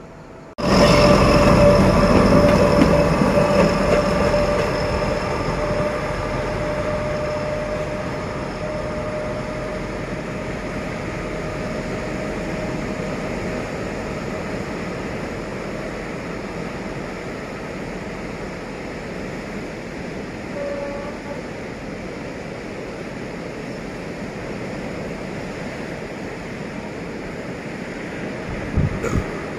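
D11H diesel-hydraulic locomotives running, their engines and wheels coming in suddenly loud about half a second in, then growing gradually quieter over several seconds and settling to a steady running sound.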